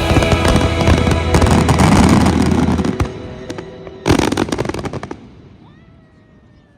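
Fireworks crackling and banging over music, with a final loud burst about four seconds in, then dying away.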